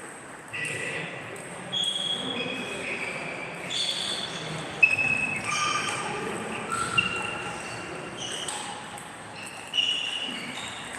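Table tennis balls clicking on tables and bats in a large hall, with short ringing ticks and a sharper hit about five seconds in.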